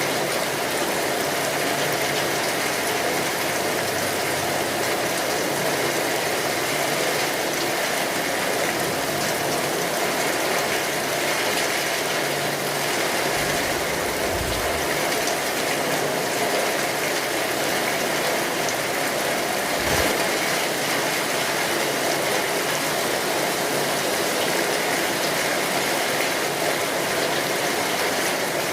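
Steady rainfall, an even hiss of many drops. A dull low thump comes about halfway through and another about two-thirds through.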